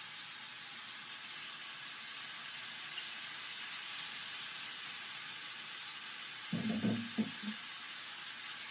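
Pork and shrimp sizzling steadily in an oiled frying pan as they are stir-fried.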